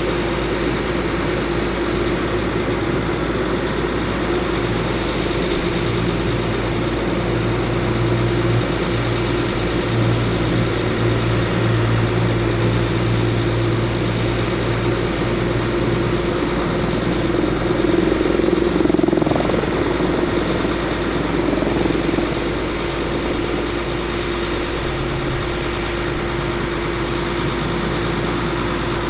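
Bucket truck's Caterpillar C7 diesel engine running steadily with a constant whine over it. A lower hum joins in from about five to sixteen seconds in, and the sound gets a little louder around eighteen to twenty-two seconds.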